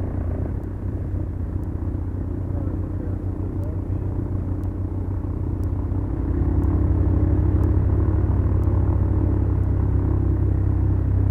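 Twin four-cylinder Lycoming engines of a Beechcraft Duchess droning steadily, heard from inside the cabin; the drone grows louder about six seconds in. Faint ticks sound about once a second throughout.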